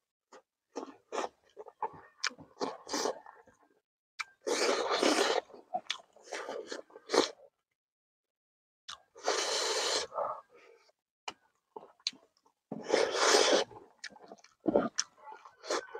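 Close-miked eating: a man chewing mouthfuls of rice and frog curry, with many short wet mouth clicks. Three louder breathy, hissing bursts break in, about a quarter of the way in, just past halfway and near the end.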